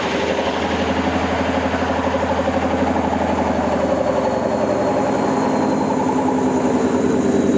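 AEG washing machine motor driving a fully loaded drum on its final spin, a steady hum with a fast, even pulsing. This is the spin in which the motor goes faulty.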